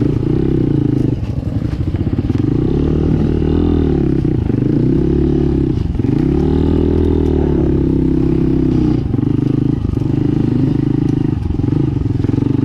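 Dirt bike engine revving up and down as the throttle is worked on a rough woods trail, its pitch rising and falling every second or two.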